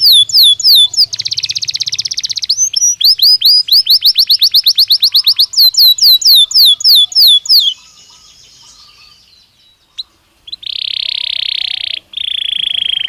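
Belgian canary singing: a run of quick falling whistled notes, about five a second, broken by a fast rolling trill. After a pause of about three seconds come two loud buzzy rolled trills near the end.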